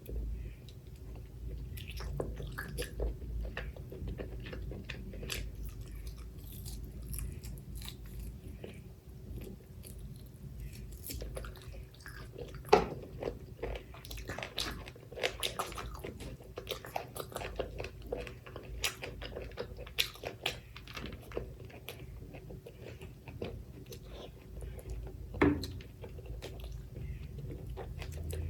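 A person chewing and biting mouthfuls of mutton curry with rice and raw onion close to the microphone, with wet mouth clicks and occasional crunches. The crunches are typical of raw onion being bitten.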